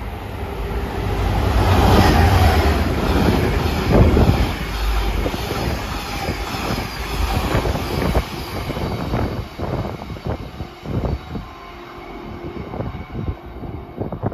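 Freight train passing close at speed: a heavy rumble as the locomotive goes by, loudest about two seconds in with a strong thud around four seconds. Then the hopper wagons' wheels clatter over the rail joints in a quick run of sharp knocks, thinning out near the end as the train clears.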